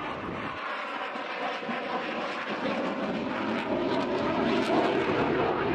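CF-18 Hornet's twin jet engines running as it flies a low pass with landing gear, arresting hook and refuelling probe out, the sound growing louder toward the end.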